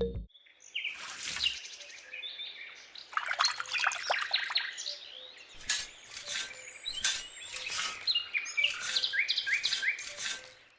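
Several birds chirping and singing in quick, short notes, with a few sharp clicks among them.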